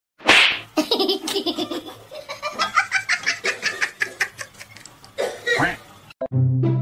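People laughing hard in rapid bursts, opening with a loud shriek-like burst. Near the end the laughter stops and a low, brassy musical note begins.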